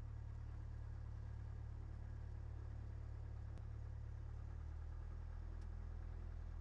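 Faint, steady low drone, its low tones shifting slightly about two-thirds of the way through, with one faint tick.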